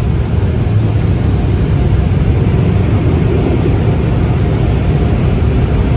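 Tunnel car wash machinery running with a loud, steady rushing rumble, heard from inside the car's cabin.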